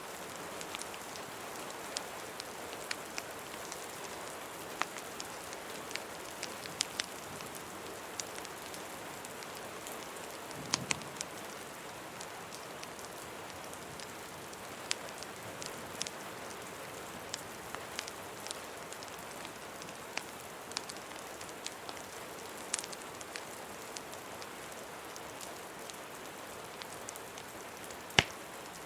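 Steady rain ambience mixed with a crackling wood fire: an even hiss of rain, with sharp single pops and snaps scattered every second or two. The loudest pop comes near the end.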